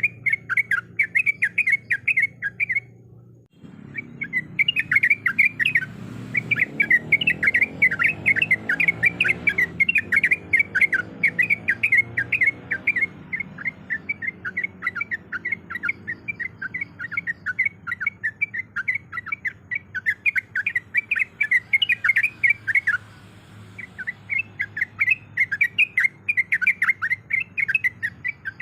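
Yellow-vented bulbul (trucuk) chattering in a fast, continuous run of short, bubbly notes. The run breaks off briefly about three seconds in and again about three quarters of the way through. The call is a female's call to a male, used as a lure.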